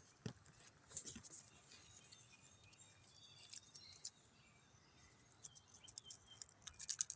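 Faint rustling and crackling of leaves and vines being handled, a few sharp crackles spread out with a quick run of them near the end. Short, faint high chirps come in between.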